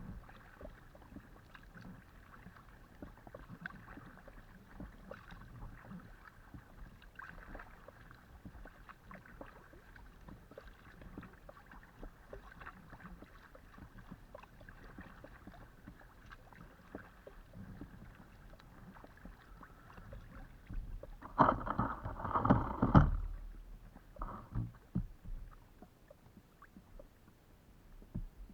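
Paddling a Decathlon Itiwit x500 inflatable kayak: steady water noise with small splashes and ticks from the paddle strokes and the hull. About three-quarters of the way through comes a louder burst of knocking and splashing lasting about two seconds, followed by a few lighter knocks.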